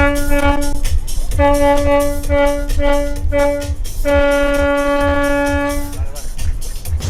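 A yacht's horn sounded in a series of blasts at one steady pitch: two of about a second each, three quick short ones, then a long blast of nearly two seconds. Party music with a steady beat plays underneath.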